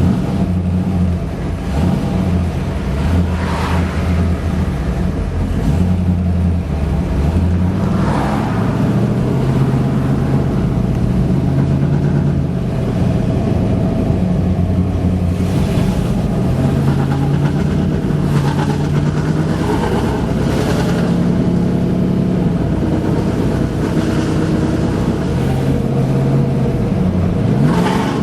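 Vehicle engine running under way, its pitch rising and dropping back several times. The engine has a misfire or stumble that the owner is recording.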